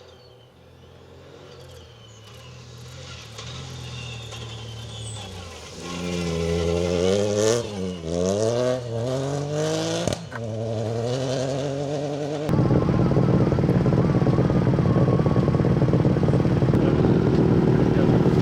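Ford Fiesta Rally4's turbocharged three-cylinder engine approaching under hard driving, growing louder, its pitch rising and dropping through gear changes and lifts. About two-thirds of the way in the sound cuts abruptly to a loud, steady rush of noise.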